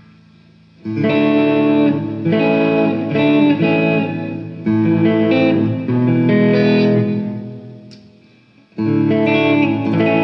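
Electric guitar played through an amplifier: strummed chords that ring and are struck again several times, die away around eight seconds in, and start again about nine seconds in. This is a sound check of the guitar's pickups across the positions of its selector switch.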